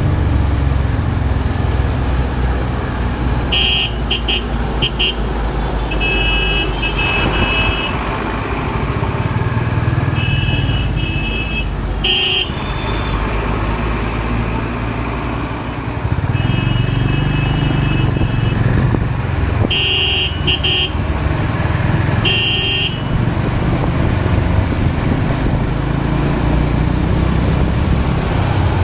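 Honda CB350 RS single-cylinder engine running steadily under way in traffic, with other vehicles' horns honking again and again: quick toots and longer blasts, some overlapping.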